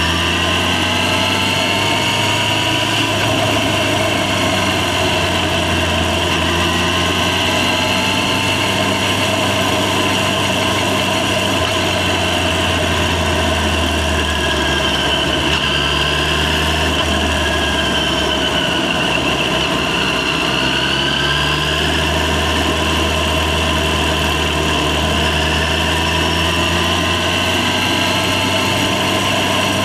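Yamaha FZ6's 600 cc inline-four engine running under way, its pitch rising and falling with the throttle. It eases off a little past the middle and then pulls again.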